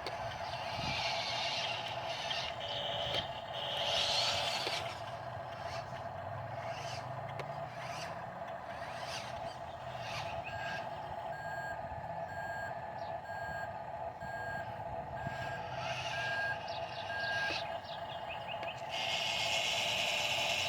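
A heavy vehicle's reversing alarm beeping at an even pace over a running truck engine, with bursts of hiss.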